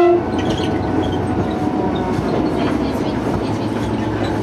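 Train running along the track, heard as a steady rumble and rattle of the wheels and carriage. At the very start, the tail of a horn note cuts off.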